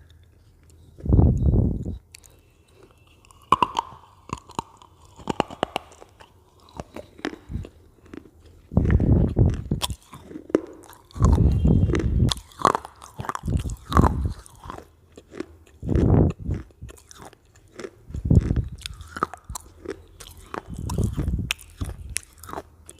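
Crunchy potato chips being bitten and chewed close to the microphone: sharp crisp crunches over dull chewing thuds, coming in clusters with short pauses between mouthfuls.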